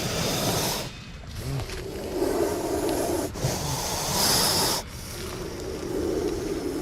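Cobras hissing amid rustling and scraping in loose soil, as a rough, noisy hiss that breaks off abruptly a few times. It is strongest about four seconds in.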